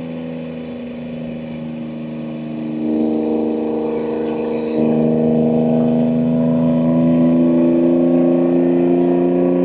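BMW M2 G87's S58 twin-turbo straight-six, with catless downpipes and an equal-length mid pipe, running steady at low revs, then getting louder about three seconds in and stepping up again near five seconds as the car accelerates, its pitch climbing slowly.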